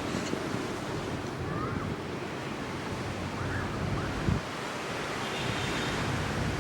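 Ocean surf washing onto the beach, a steady rushing noise, with wind on the microphone. A short knock about four seconds in.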